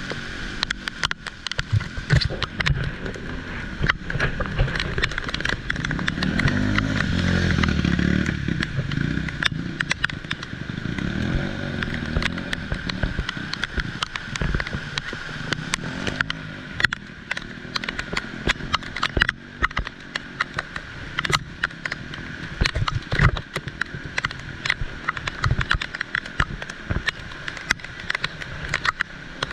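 Heavy rain, with many close drops ticking and tapping. A motor vehicle passes about six to nine seconds in, its engine rising and then fading.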